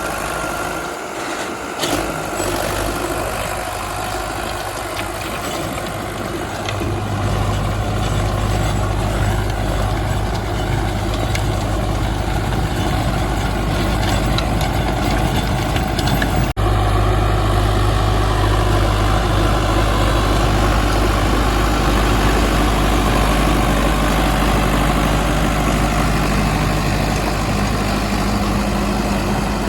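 Sonalika DI 750 Sikander tractor's diesel engine running steadily, its low note growing stronger about seven seconds in. There is a brief sharp break about halfway through.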